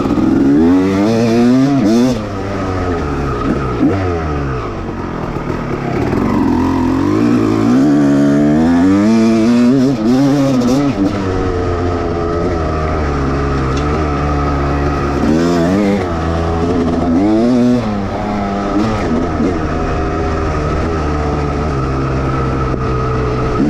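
1989 Honda CR250R two-stroke single-cylinder motocross engine, revved up and down repeatedly, with spells of steadier running in between.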